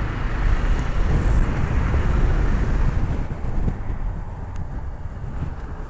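Wind buffeting the microphone with a low rumble, loudest for the first three seconds and then easing off.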